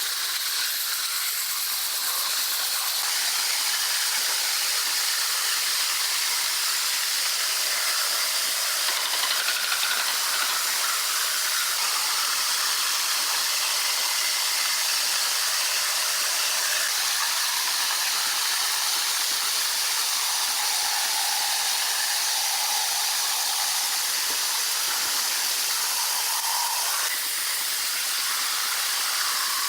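Sawmill machinery running: a steady, high hissing noise with a few faint whining tones.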